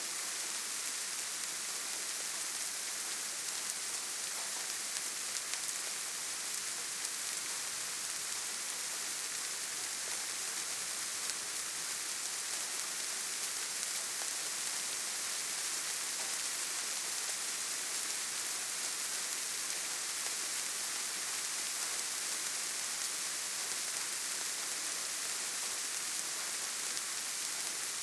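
Steady rainfall in a forest, an even hiss with the patter of drops.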